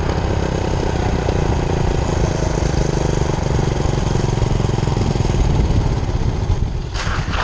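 Minibike's 5 hp Honda single-cylinder four-stroke engine running steadily under power, with a brief rush of noise near the end.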